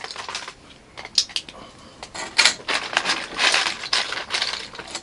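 Plastic LEGO bricks clicking and clattering as they are handled during a build, in irregular bursts of small sharp clicks.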